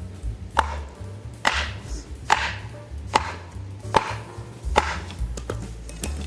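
Six evenly spaced chopping strikes, a blade hitting a board or wood a little under a second apart.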